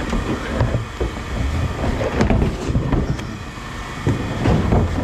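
A vehicle running with a steady low rumble, with occasional short knocks over it.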